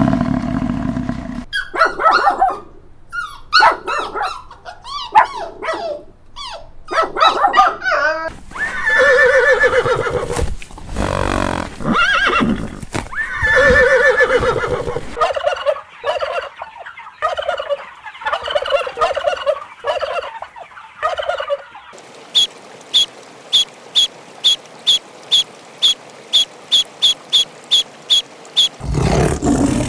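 Farm animal calls one after another: a stretch of fast, stuttering calls, then several longer calls, then, for the last seven seconds or so, a row of short, evenly spaced high calls at about two and a half a second.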